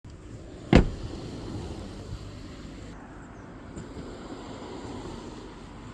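Steady low outdoor rumble, with one sharp knock or click about a second in that is the loudest sound.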